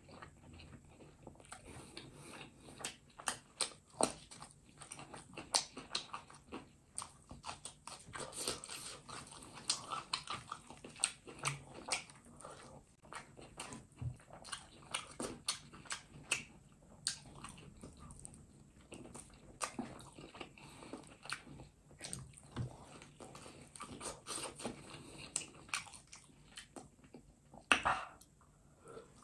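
Close-miked mukbang eating sounds: wet chewing, lip smacking and biting as curried duck and rice are eaten by hand, a dense irregular run of short, sharp clicks and smacks, with one louder sound near the end.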